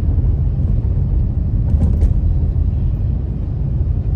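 Steady low rumble of a car driving on the road, with two faint clicks about two seconds in.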